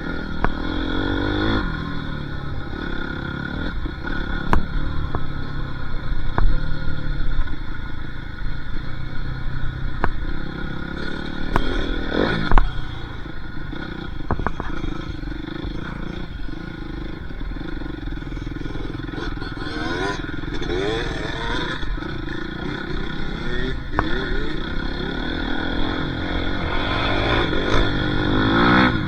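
Dirt bike engine being ridden, its revs rising and falling repeatedly through the throttle and gear changes, over a constant low rumble and a few sharp knocks.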